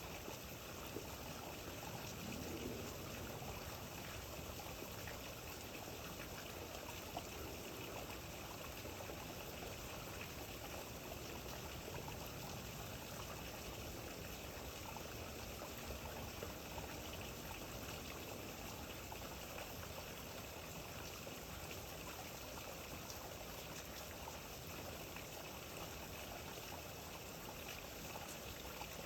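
Steady rain falling, an even wash of water noise with faint scattered drop ticks.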